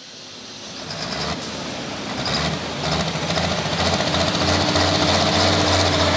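Light limited super stock pulling tractor's engine running hard with a rapid rattling beat, growing steadily louder over the first few seconds and then holding at full volume.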